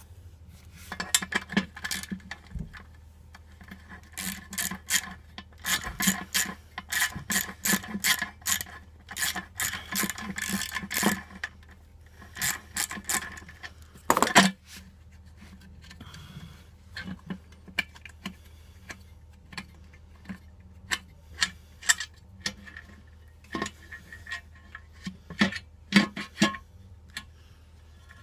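A socket ratchet clicking in quick runs, with scattered clinks of tools on metal, as bolts are worked loose on a motorcycle.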